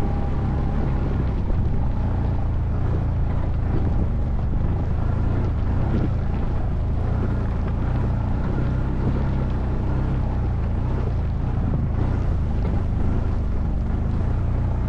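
ATV engine running steadily at a near-constant pitch, with wind noise on the microphone.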